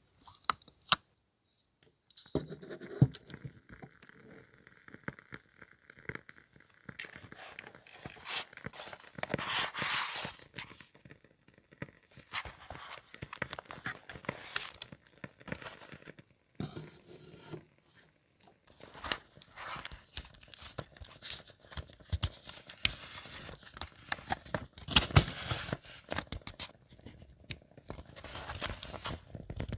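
Close-up paper handling: irregular rustling, crinkling and tearing sounds with small clicks and scrapes, broken by short quiet gaps.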